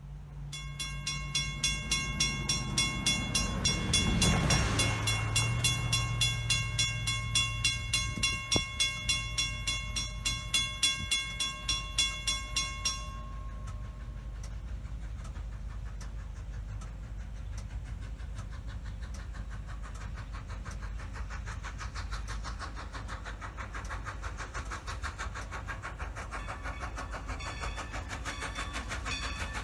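Steam locomotive: a long whistle blast, pulsing about twice a second, that cuts off abruptly about thirteen seconds in, followed by steady running noise with a fast rhythmic beat.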